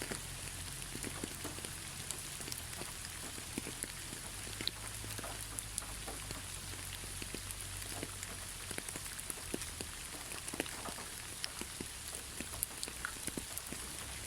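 Steady rain: an even hiss with many separate drops ticking irregularly on a hard surface.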